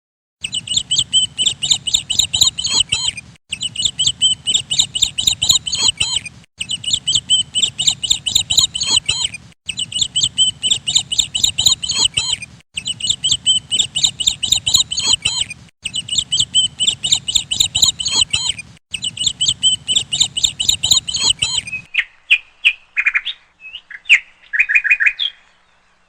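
Small bird chirping rapidly in quick high notes. The same stretch of about three seconds repeats seven times with short breaks, as if looped, before a few different chirps near the end.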